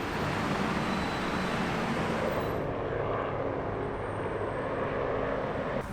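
Steady engine drone with a rushing noise, from military machinery passing.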